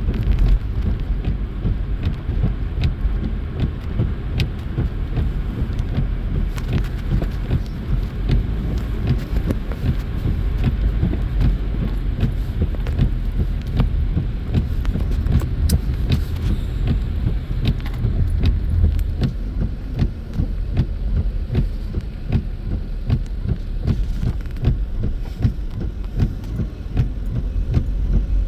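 Car driving on snowy roads, heard from inside the cabin: a steady low rumble of tyres and engine, with many faint ticks throughout.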